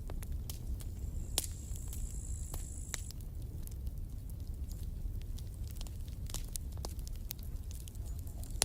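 Campfire crackling: irregular sharp pops and snaps over a low, steady rumble. A louder pop comes about a second and a half in, followed by a high, thin hiss for about a second and a half.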